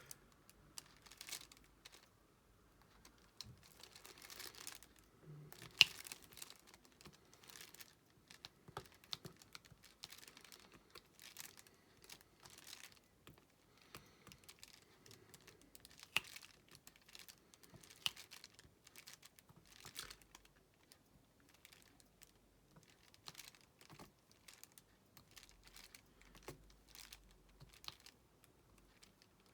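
Irregular small clicks and taps of a diamond painting pen pressing resin drills onto the canvas, mixed with crinkling of the canvas where it runs off the edge of the mat. One sharper click about six seconds in.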